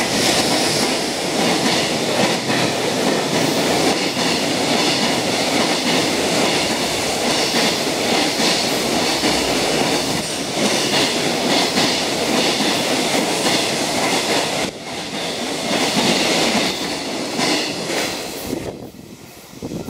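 JR Freight EF510 electric locomotive and its container wagons passing through at speed: a loud, steady rush of steel wheels on rail, with a repeated clickety-clack of wheels crossing rail joints. The sound drops away sharply near the end as the last wagon clears.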